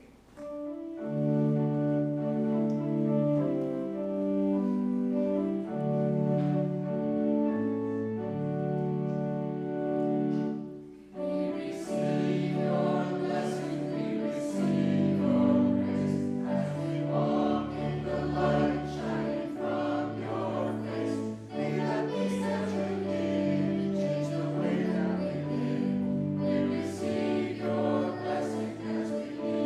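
Church music after the benediction: long held chords, with a short break about eleven seconds in, then fuller and busier music with more frequent note changes.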